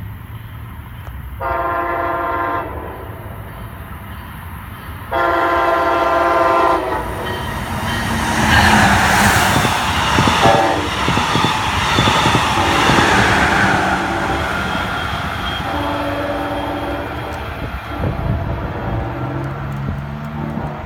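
Brightline passenger train led by Siemens SC-44 Charger diesel locomotives: the horn sounds two blasts, a short one about a second and a half in and a longer one about five seconds in. Then the train passes at speed with loud rushing wheel and rail noise. Fainter horn-like tones follow, and a falling pitch comes near the end.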